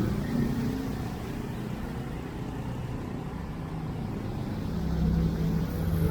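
A motor vehicle's engine running close by, its low hum growing louder over the last couple of seconds as it approaches.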